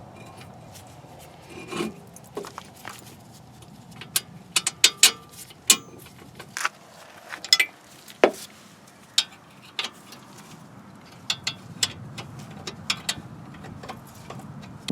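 Hand tools and metal car parts being handled: irregular sharp clicks and clinks, thickest in two flurries, one a few seconds in and one near the end.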